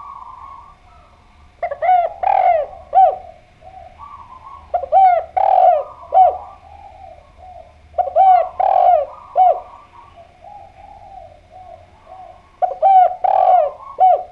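Spotted dove (derkuku) cooing: four loud phrases of three or four short notes each, about every three to four seconds, with quieter cooing in between.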